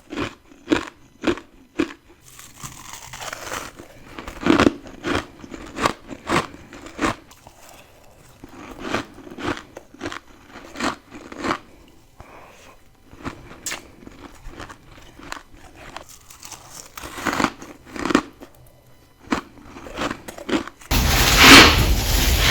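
Close-miked bites into ice, each a sharp crunch followed by crunchy chewing, coming irregularly every second or so. About 21 seconds in, a louder steady hiss comes in underneath the crunches.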